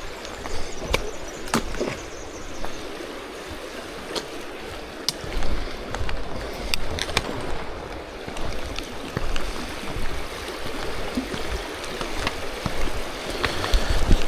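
River water flowing steadily, with scattered small clicks and knocks over it.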